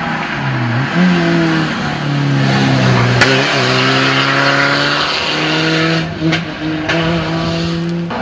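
Rally car engine at high revs as the car drives through a bend. The revs drop and climb again with each gear change. There is a sharp crack about three seconds in.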